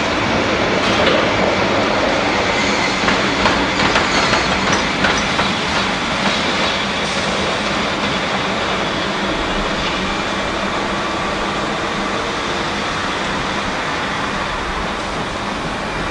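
Electric locomotive rolling through station tracks, its wheels clacking over rail joints and points, the clacks most frequent in the first half over a steady rolling rumble.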